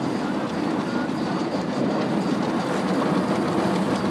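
Automatic car wash machinery working over the car, heard from inside the cabin: a steady rumble and hiss with no let-up.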